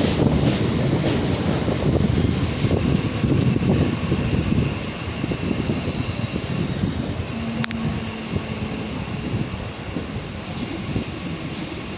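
Mumbai local electric train rolling into the platform, its loud low rumble easing after about four seconds as it slows. A single sharp click comes about eight seconds in.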